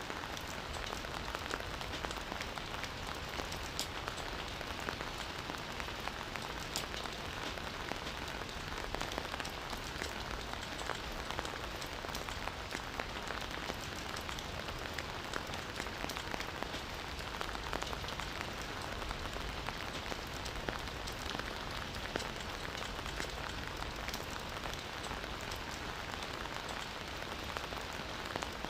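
Steady rain falling in a forest, an even hiss dotted with the sharp clicks of individual drops, holding the same level throughout.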